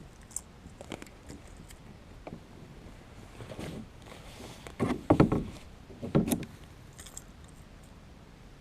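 Scattered clicks and rattles of fishing gear being handled in a kayak, with a few louder knocks against the hull about five and six seconds in.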